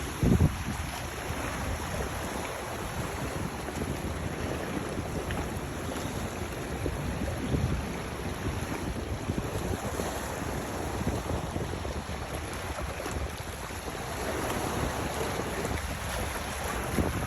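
Steady wind rumbling on the microphone over the sound of waves, with a brief thump just after the start and another about seven seconds later.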